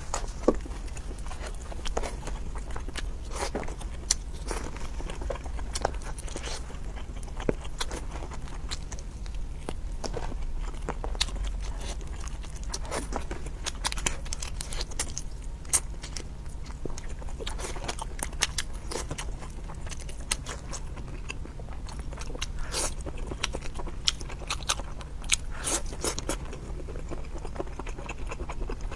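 Close-up chewing and biting of cooked prawns and octopus: many irregular sharp clicks and crunches from the mouth, over a steady low hum.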